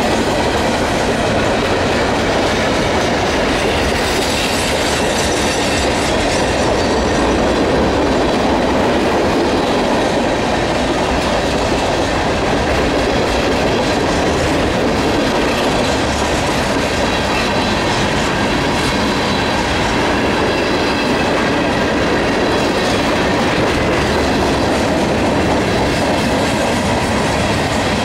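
Freight train cars rolling past close by: a steady, loud noise of steel wheels on the rails with a clickety-clack from the wheels.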